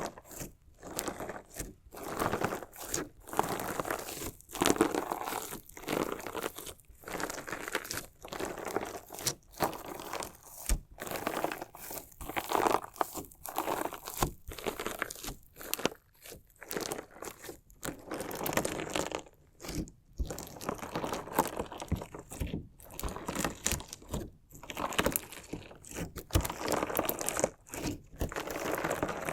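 Crunchy slime mixed with decorative stones being cut and squished by hand close to the microphone: a run of irregular crunching, crackling strokes, each a short burst with brief pauses between.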